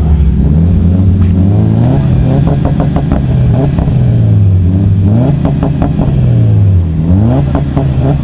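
Car engine revved hard through a loud exhaust, its pitch climbing and falling back several times, with a sharp climb near the end.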